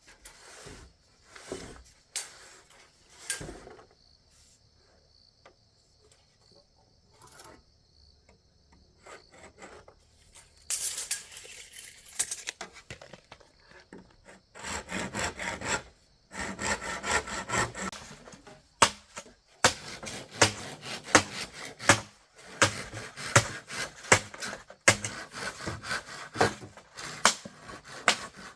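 A hand tool working wood: scattered scrapes and knocks at first, then from about halfway a long run of quick, rhythmic rasping strokes.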